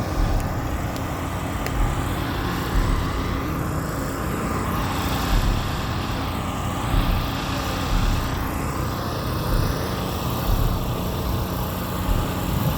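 Motor vehicles running, a steady low rumble with small surges about every second or so.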